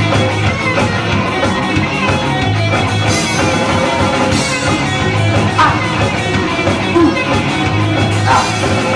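Live rock band playing an instrumental passage at full volume: electric guitars, bass and a steady drum beat, with no singing yet.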